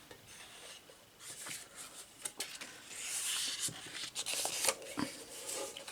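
A strip of paper being handled and lined up against a metal tea tin: paper rustling, with a few light taps and clicks against the tin.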